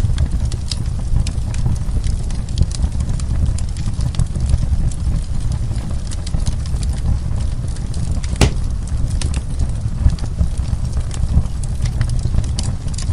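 Wood fire crackling in a fireplace: a steady low rumble of flames with frequent sharp pops and crackles, and one louder pop about eight seconds in.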